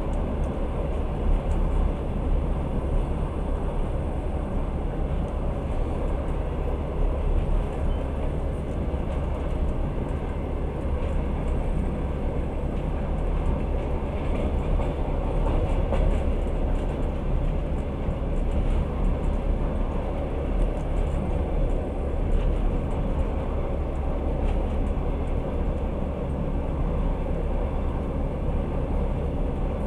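Long-distance passenger train running at speed, heard from inside the carriage: a steady low rumble of the car and its wheels on the track.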